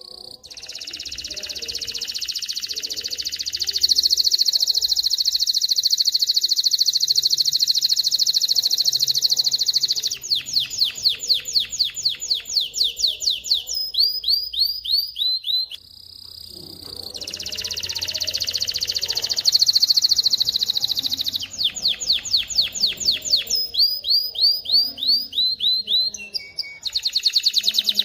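Male canary singing. A long, very fast trill swells and holds, then gives way to phrases of slower, separate repeated notes and rolling runs. After a brief pause about sixteen seconds in, the same sequence starts over.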